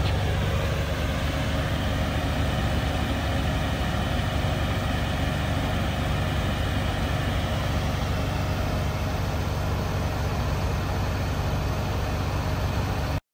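Nissan Skyline GT-R V-spec II (R34) twin-turbo straight-six idling steadily through an aftermarket NISMO exhaust, a deep, even burble that stops abruptly at the end.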